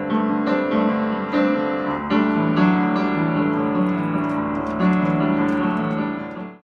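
Background piano music with notes struck every half second or so, cutting off suddenly near the end.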